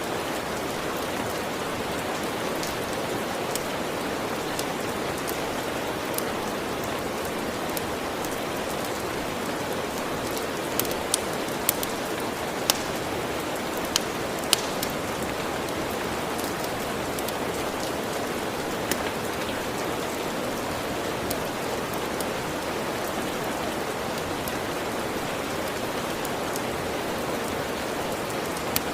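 Steady rain falling, with a few sharp crackles of a wood fire scattered through it, most of them bunched together around the middle.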